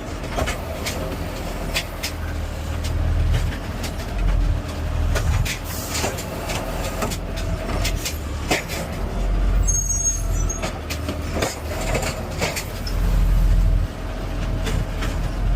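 Garbage truck engine running, its low rumble swelling louder several times, with scattered clicks and rattles.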